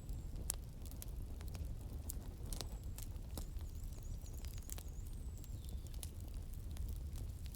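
Wood fire crackling: irregular sharp pops and snaps over a steady low rumble, with a faint thin high whistle wavering for a couple of seconds in the middle.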